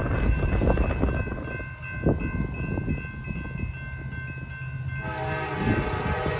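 Freight train passing on the main line with its locomotive horn sounding: held horn tones over a low rumble of locomotives and rail cars, with a second, lower horn chord joining about five seconds in.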